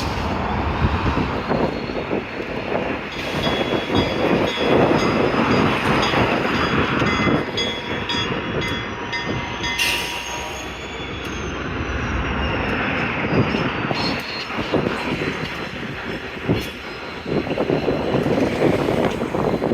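Freight cars rolling along the rails with a rumbling, steady high-pitched wheel squeal and a few sharp metallic clanks.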